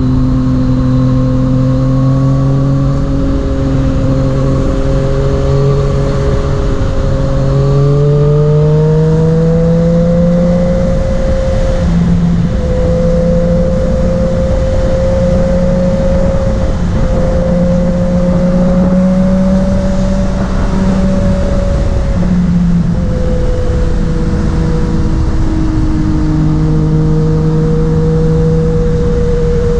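Yamaha MT-09's three-cylinder engine running under way, its note holding steady, climbing in pitch about a third of the way in, then breaking off briefly several times, over constant road and wind noise.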